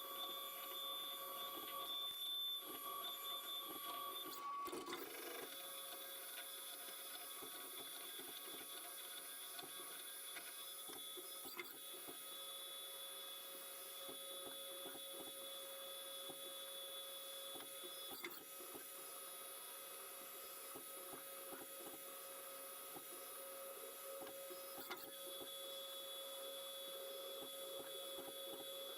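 Haas CNC mill running a machining cycle: a steady whine of several tones over faint cutting noise, which dips and shifts slightly about four to five seconds in.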